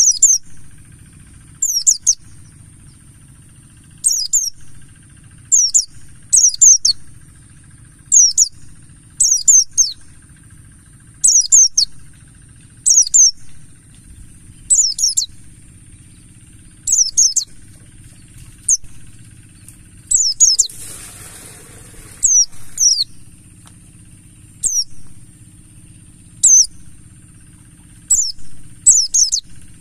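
White-eyes (pleci) calling: short, sharp, high chirping phrases repeated every second or two, over a steady thin high hiss and a low hum. A brief rustle comes around two-thirds of the way in.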